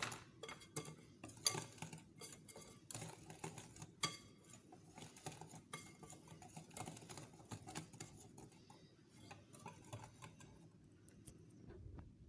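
A utensil clicking and scraping against a mixing bowl as cake-like cookie batter is stirred, in quick irregular taps that grow sparser toward the end.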